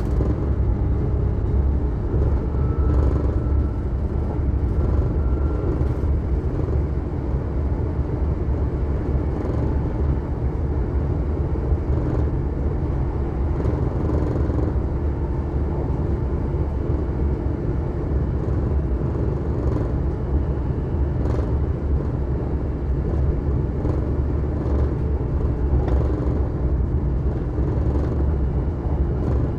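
Passenger train running at speed between stations, heard from inside the carriage: a steady low rumble of wheels on the track, with an occasional faint click.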